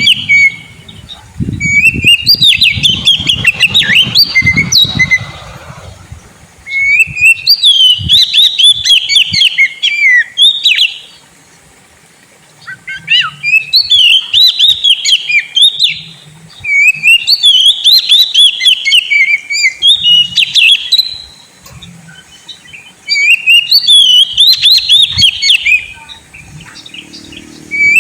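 Oriental magpie-robin (kacer) singing loudly in repeated phrases of rapid, chattering high notes. Each phrase lasts a few seconds and the phrases are split by short pauses. This is the full song used as a lure to set a silent caged kacer singing.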